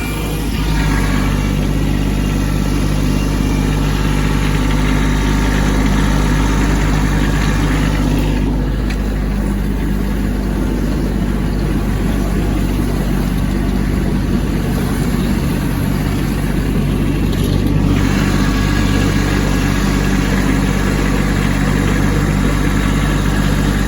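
Kubota B2601 compact tractor's three-cylinder diesel engine running steadily at working speed while clearing snow. The higher hiss over the engine fades for a stretch in the middle and then comes back.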